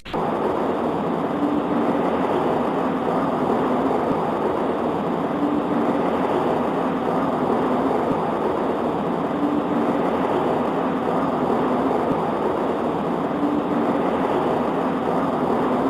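Steady rain on a window, an even hiss, with a faint low hum that swells about every two seconds.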